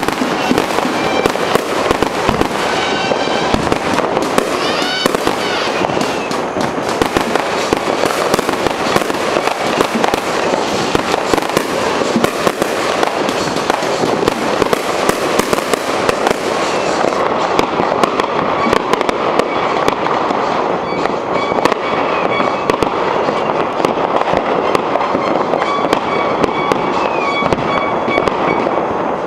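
New Year's Eve fireworks and firecrackers going off without pause: dense, overlapping pops and crackles, with a few high gliding whistles about three to six seconds in.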